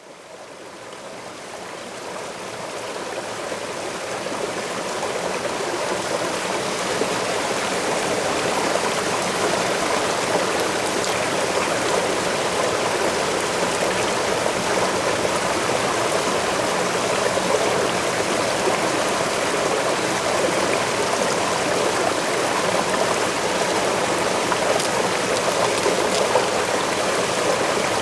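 Waterfall rushing steadily, fading in over the first few seconds.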